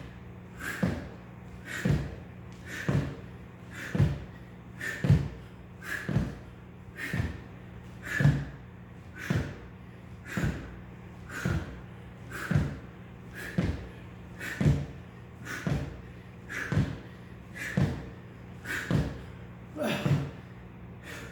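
A home pull-up station knocking in a steady rhythm of about one thud a second as pull-up reps are done with weights strapped to the legs. A steady low hum runs underneath.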